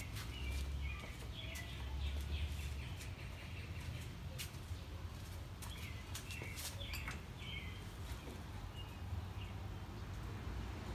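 Small birds chirping in short bursts, with a few sharp clicks scattered through and a low rumble during the first three seconds.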